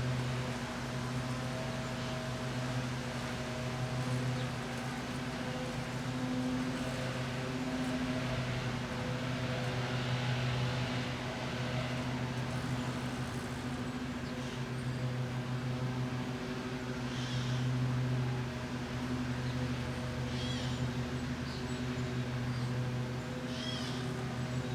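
Two Proctor-Silex microwave ovens running together with a steady low electrical hum. A few short high chirps come in during the second half.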